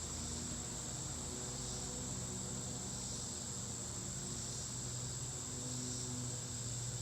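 Insects trilling in a high continuous tone that holds steady, over a faint low hum.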